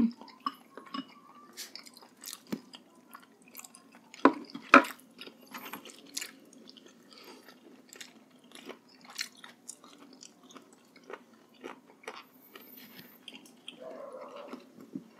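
Close-miked eating sounds: wet chewing, smacking and biting of soft braised pork hock, with scattered small clicks and two sharp clicks about four to five seconds in.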